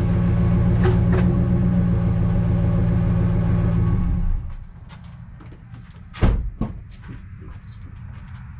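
A vehicle engine running steadily, then switched off about four seconds in; about two seconds later a single loud thump, with a few light clicks after it.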